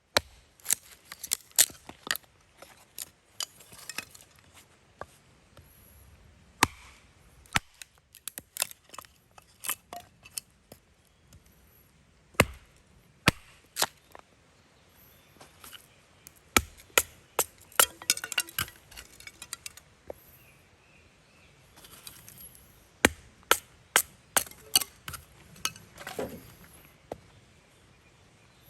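Firewood being chopped: a long run of sharp, irregular wooden knocks, some coming in quick clusters.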